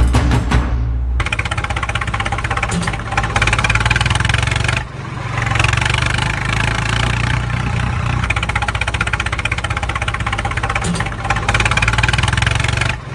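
An engine running with a rapid, steady firing beat, plausibly the engine of a mini bulldozer. It dips briefly about five seconds in and again at the end. A drum-heavy music track ends about a second in.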